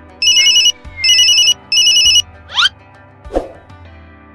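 Background music with an electronic phone-style ringtone effect: three short, loud trilling rings in quick succession, then a quick rising whistle glide and a short pluck.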